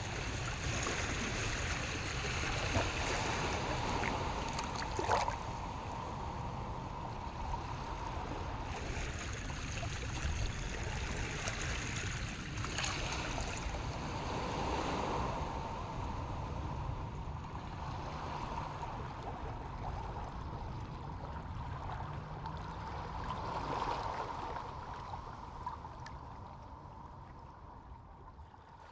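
Harbor water washing and lapping toward the shore, swelling and easing every few seconds, with a few faint sharp splashes; it fades out near the end.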